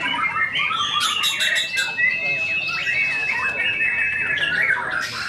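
White-rumped shama (murai batu) in full song, pouring out fast, varied phrases that mix in imitations of other birds' calls, with one long held high whistle from about one second in to past four seconds.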